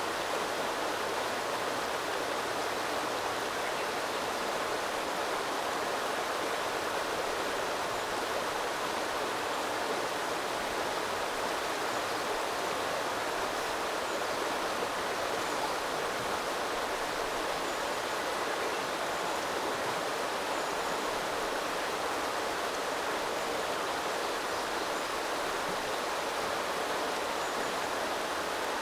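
Small river flowing and burbling over stones, a steady, even rush of water.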